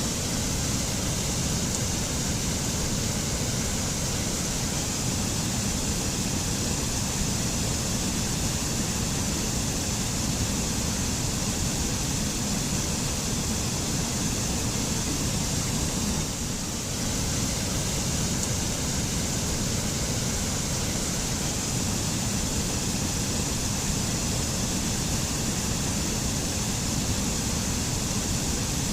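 Mountain waterfall in a forest: a steady, full rush of falling water.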